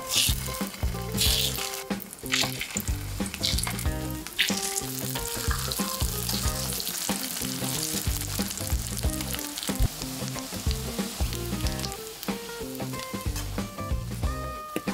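Egg-battered pink sausage slices sizzling in hot oil in a frying pan. In the first few seconds, sharp clicks of chopsticks against the pan come as slices are laid in, and about four seconds in the sizzle grows fuller and steadier.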